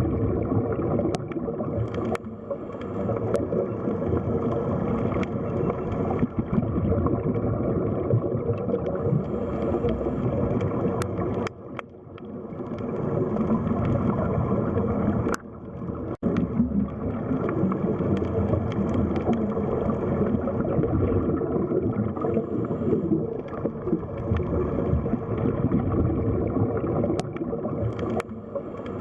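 Underwater sea-floor ambience: a steady low rumble and wash of moving water with scattered faint clicks. It drops away briefly about twelve seconds in and again about fifteen seconds in.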